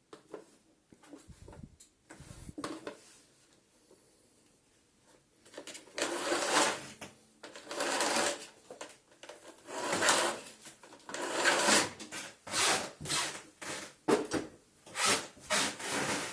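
Plastic parts of a vacuum cleaner being handled during disassembly. A few faint clicks come first, then from about six seconds in a run of loud, noisy bursts of handling noise, roughly one a second.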